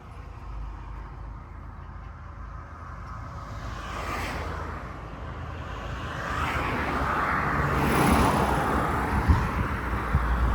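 Car driving: a steady low road rumble, with a rushing noise that grows louder over the second half.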